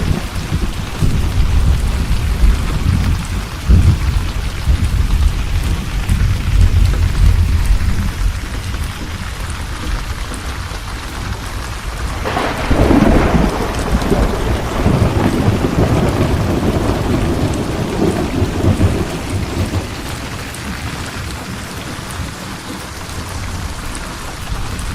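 Steady rain with rolling thunder. Low rumbling runs through the first several seconds. About halfway through a sharper clap comes, rolling on for several seconds before it dies away under the rain.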